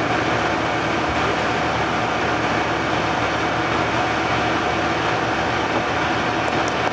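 A fire ladder truck's diesel engine running steadily: an even, unbroken mechanical drone with a constant hum.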